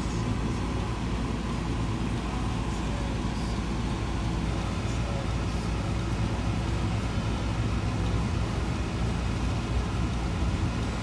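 Vehicle engine and road noise while driving: a steady low hum.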